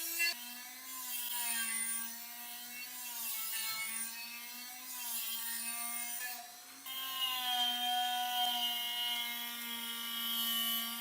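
Small electric power tool motor running with a steady whine, its pitch sagging as it is pressed against the work, over a scratchy abrasive rubbing. It drops in pitch right at the start and dips briefly about two-thirds of the way through.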